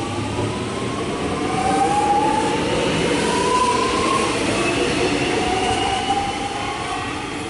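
Melbourne suburban electric train pulling out of the station, its traction motors whining in rising pitch as it accelerates, over the rumble of the wheels on the rails.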